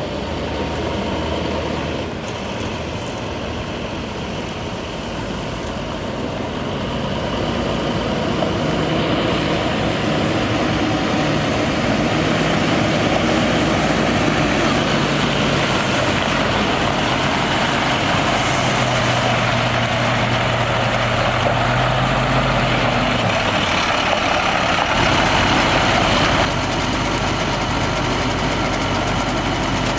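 The MaxxForce DT diesel engine of an International 4300 water truck runs steadily, driving its PTO water pump, under a broad rushing hiss that grows louder after the first several seconds. Near the end the engine note drops and the rushing eases a little.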